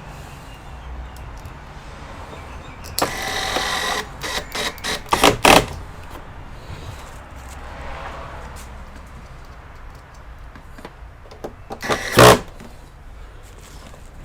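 Handling noise from taking apart an all-in-one computer's plastic casing: a scrape lasting about a second, then a quick run of clicks and knocks, and one loud knock near the end.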